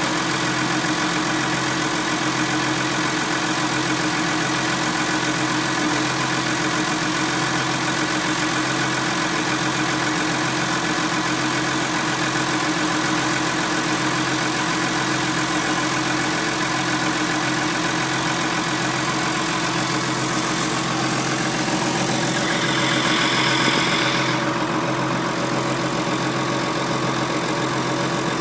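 Massey Ferguson 6290 tractor's diesel engine running steadily at an even, idle-like speed. About three-quarters of the way through, a brief higher-pitched hiss rises over it and fades.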